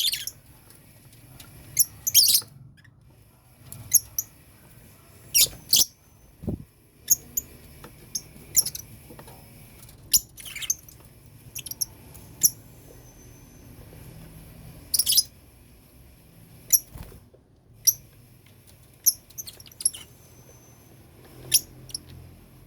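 Lovebirds in a colony aviary giving short, sharp, high-pitched chirps and squeaks, scattered irregularly, about a dozen calls.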